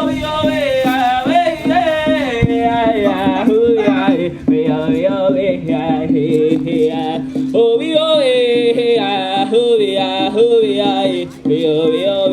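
A powwow song: a voice singing wordless vocables in long, wavering, gliding phrases over a steady low drone.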